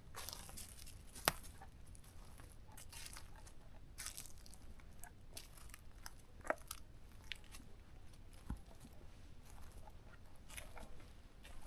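Footsteps crunching through dry leaf litter and twigs on a forest floor, with irregular crackles and a sharp snap about a second in.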